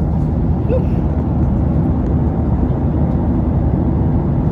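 Steady low rumble of a jet airliner's cabin in flight: engine and airflow noise heard from inside the passenger cabin.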